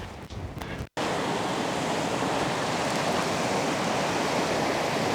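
Snowmelt-fed mountain river rushing steadily, starting abruptly after a brief cut about a second in; before that, only faint wind noise.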